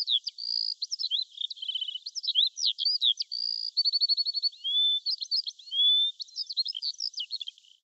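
A songbird singing a varied run of quick chirps, short trills and rising and falling whistled notes, in phrases broken by brief pauses.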